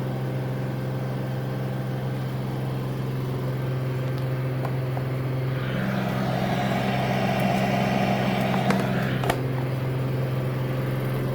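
Samsung AddWash front-loading washing machine in its final spin, holding steady at its top speed of 1300 RPM: a steady low hum, with a rushing noise that swells for a few seconds midway and a couple of faint clicks.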